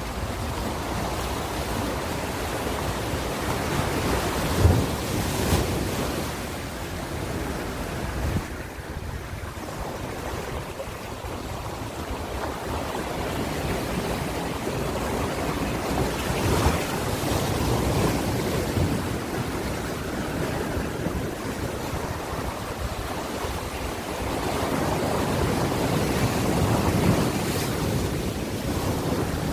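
Ocean waves washing onto a shore, a continuous surf rush that swells and ebbs every several seconds, with some wind noise on the microphone.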